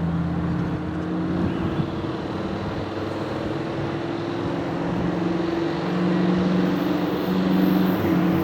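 Diesel locomotive engine running steadily over a rumbling haze of noise, growing a little louder about five and a half seconds in.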